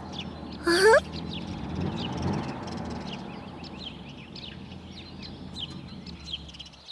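Birds chirping in many short, high chirps, with one louder sliding call about a second in.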